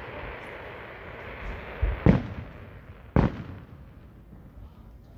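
Aerial firework shells bursting overhead: a fading hiss, then two loud bangs about a second apart, each with a short echoing tail.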